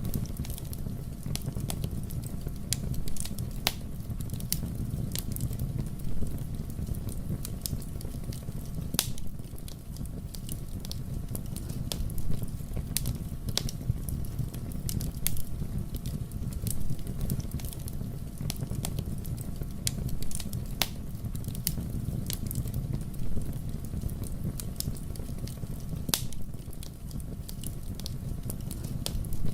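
Fire burning in a fireplace: a steady low rumble of flames with frequent sharp crackles and pops scattered irregularly throughout.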